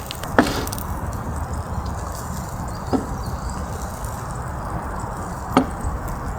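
Three sharp, separate wooden knocks, the first and last the loudest, over a steady low rumble.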